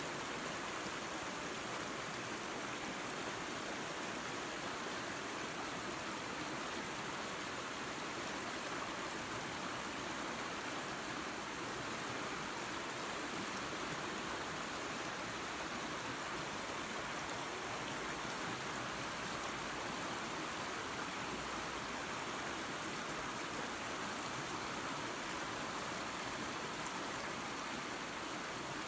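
Small waterfall spilling into a creek: a steady, even rush of falling and running water.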